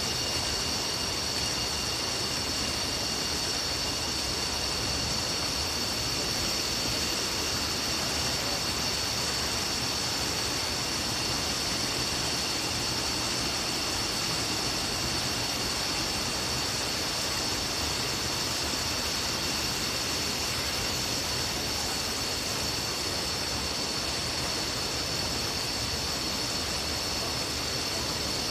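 Waterfall: water rushing and splashing in a steady, unbroken roar, with a few faint steady high-pitched tones over it.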